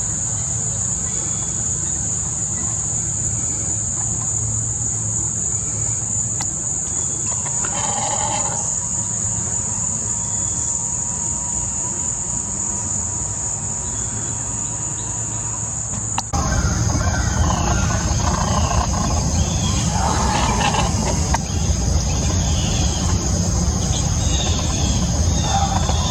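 A steady high insect drone from crickets or cicadas runs under a low background rumble, with a single bird call about a third of the way in. After an abrupt cut about two-thirds in, the rumble grows louder and house finches chirp and twitter busily at a feeder.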